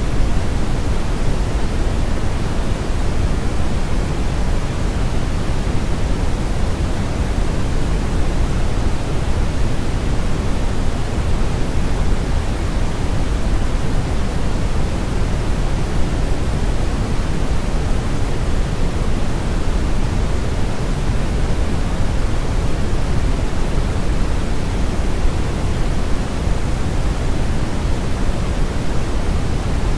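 Steady brown noise: an even, unchanging hiss-like rumble weighted heavily toward the low end, with the highs rolled off.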